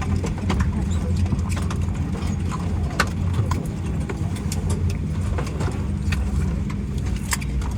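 Cabin noise inside a Boeing 737-800 on the ground after landing: a steady low hum from the engines with scattered sharp clicks and rattles.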